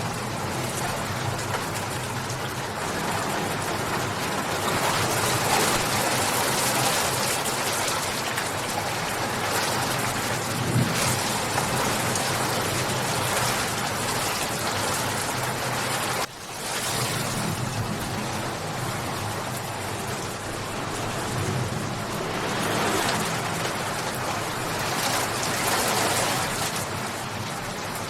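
Steady rain falling and pattering on surfaces, an even dense hiss. About sixteen seconds in it drops out sharply for an instant, then comes straight back.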